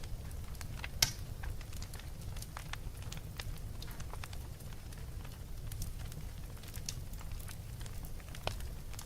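Wood fire crackling, with irregular sharp pops over a steady low rumble; the loudest pop comes about a second in.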